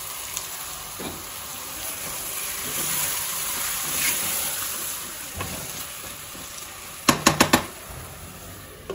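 Chicken and grated tomatoes sizzling in an open pressure cooker as they are stirred with a wooden spatula, a steady hiss. About seven seconds in, a quick run of about four sharp knocks stands out as the loudest sound.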